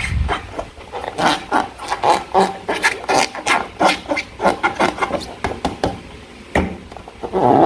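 Sticky slime being squished and stretched by hand, giving a run of short wet clicks, pops and squelches, several a second and uneven in loudness.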